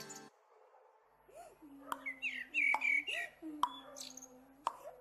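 Birds chirping over four sharp, evenly spaced knocks about a second apart: an axe chopping into a tree trunk.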